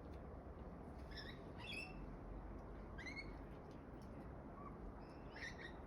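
Faint calls of backyard birds: short chirping notes that rise in pitch, coming four times, over a faint steady low background.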